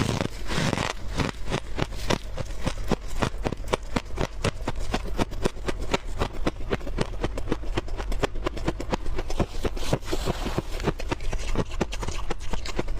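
Soft, squeaky freezer frost crunching in a rapid, uneven run of small crunches, several a second.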